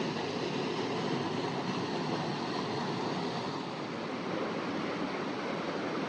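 Creek water running steadily in a canyon, an even rushing with no breaks.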